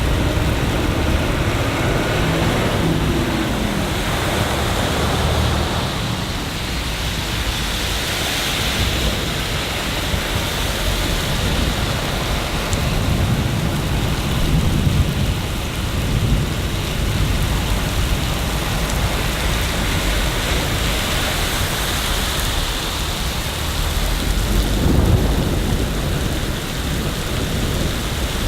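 Steady heavy rain with low rumbles of thunder swelling now and then: a few seconds in, about halfway through and near the end.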